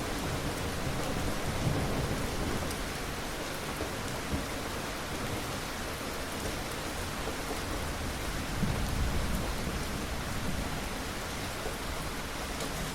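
Steady rain falling, with low rumbles of thunder swelling twice, a couple of seconds in and again about two-thirds through.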